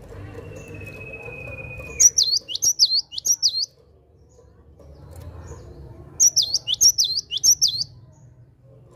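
Cinereous tit (gelatik batu) singing its repeated 'wucit wucit' song in two bursts of about four to five quick, high notes each, one about two seconds in and one about six seconds in. Before the first burst, a steady high whistle is held for about two seconds.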